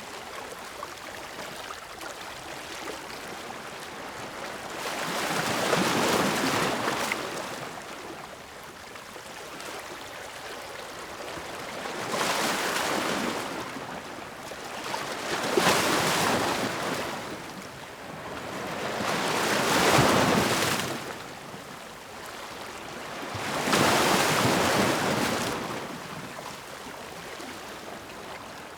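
Ocean waves breaking and washing onto the shore, five swells of surf over a steady hiss of water, each building and falling away over a second or two.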